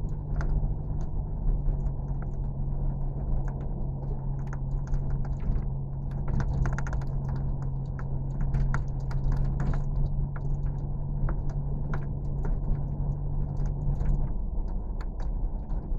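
A steady mechanical hum with a low drone and scattered clicks and rattles; the drone stops about 14 seconds in.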